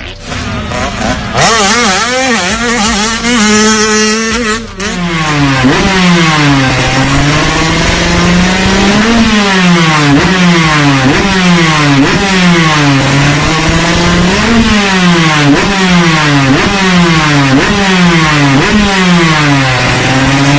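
An off-road engine revving hard and easing off over and over, its pitch rising and falling about once every second or two. The sound cuts abruptly a couple of times early on, where the footage changes.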